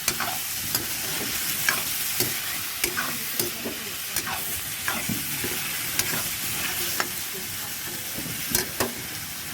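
Chicken sautéing in a pan with a steady sizzle, stirred with a utensil that knocks against the pan about a dozen times.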